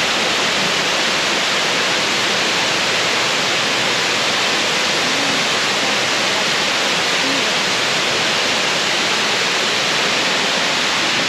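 A big waterfall, Brandywine Falls, pouring: a loud, steady rush of falling water.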